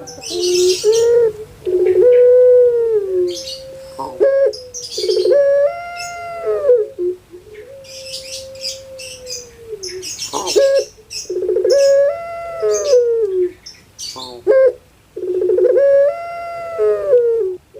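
Puter pelung doves (Streptopelia risoria) cooing: a string of long, drawn-out calls, each swelling and then falling in pitch, with a few steadier held notes between them. Short high chirps are heard over the coos.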